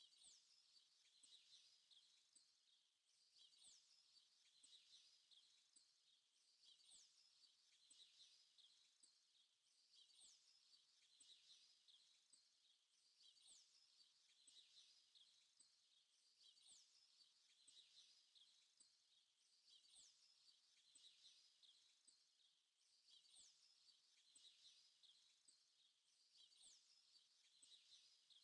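Very faint birdsong: high chirps with a short falling whistle that repeats about every three seconds.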